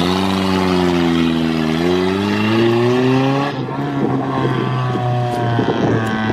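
Straight-piped car exhaust running loud. The engine note holds steady, then climbs in pitch as it revs. About three and a half seconds in, it changes abruptly to a lower, rougher steady note.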